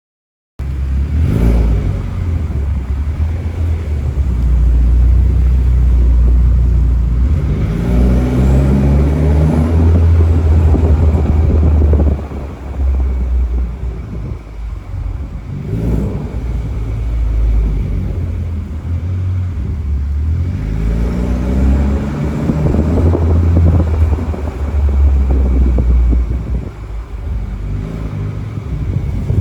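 Exhaust of a tuned BMW 330i's turbocharged 2.0-litre four-cylinder through a valved axleback sport exhaust: a heavy low rumble, with two stretches where the engine note climbs in pitch under acceleration, the first cutting off sharply. The sound starts abruptly about half a second in.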